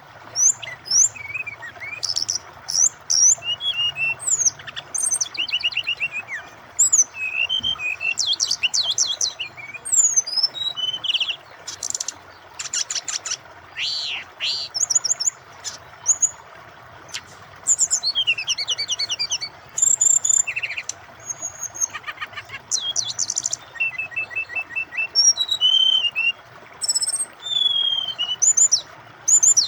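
Brown-chested jungle flycatcher (SRDC) singing a varied song of quick high whistles, rising and falling slurs and fast trills, phrase after phrase with short gaps. Under the song runs a steady hiss of flowing water.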